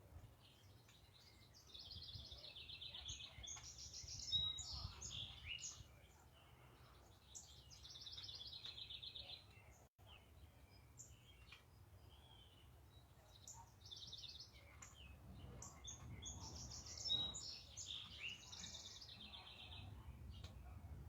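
Songbirds singing: several high, rapidly trilled song phrases of two to three seconds each, with pauses between, over a faint steady low rumble.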